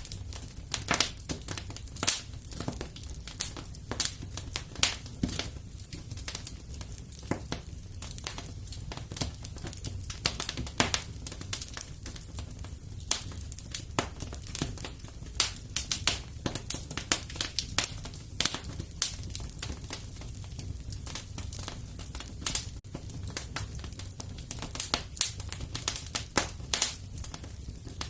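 Wood fire crackling in a fireplace: a continuous stream of irregular sharp pops and snaps over a low, steady rumble.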